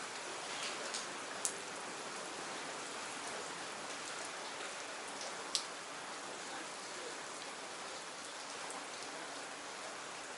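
Steady rain falling, an even hiss with a few sharper single drops striking nearby, the clearest about a second and a half in and again near the middle.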